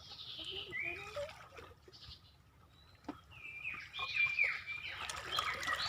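Birds calling: short chirped and whistled notes, in a burst during the first second and another from about four seconds in.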